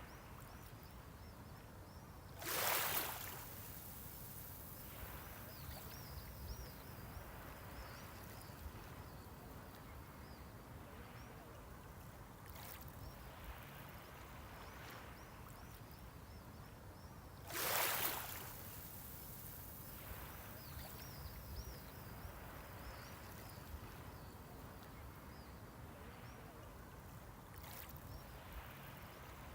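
Small sea waves lapping on the shore: a steady low wash, broken twice by a brief louder splash of a wave breaking, about fifteen seconds apart.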